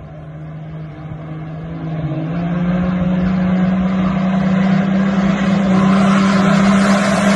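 A vehicle engine running hard, growing louder over the first few seconds as its pitch steps up, then holding at high, steady revs.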